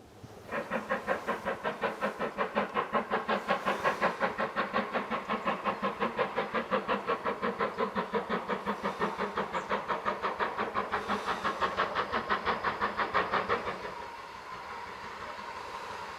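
Steam locomotive working with a rapid, even exhaust beat, about five a second, which stops at about 14 seconds and leaves a steady hiss.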